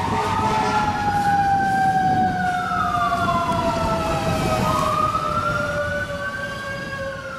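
Two emergency sirens sounding together. One wails up and down about every four and a half seconds, and the other is a long tone slowly falling in pitch. Low traffic rumble runs underneath, and it all fades near the end.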